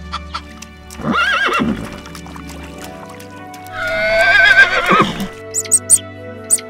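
Horse whinnying: one long, quavering neigh about four seconds in, after a shorter call about a second in, over background music.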